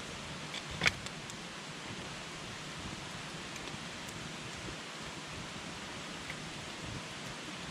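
Wood campfire burning with a steady soft hiss and scattered small crackles, and one sharp pop about a second in.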